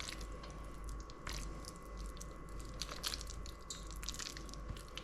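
Hands pressing a wet, sticky bhaji batter of grated potato, onion and gram flour onto raw chicken breast: soft squelches and sticky clicks at irregular intervals, over a steady low hum with a faint steady whine.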